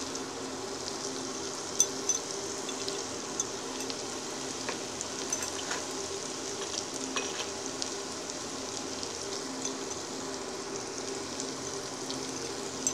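Spiced onion, ginger-garlic and tomato masala paste sizzling in mustard oil in a non-stick frying pan, stirred and scraped with a plastic slotted spatula. A steady crackling hiss with scattered small clicks, one sharper about two seconds in. The masala is being fried down (koshano) until the oil separates.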